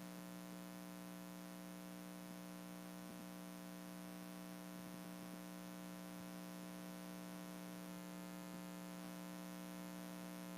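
Steady, faint electrical mains hum: a constant buzz of several evenly spaced tones.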